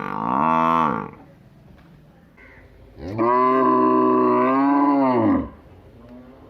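A bovine lowing. One long call ends about a second in, and a second long, loud call of about two and a half seconds drops in pitch at its end.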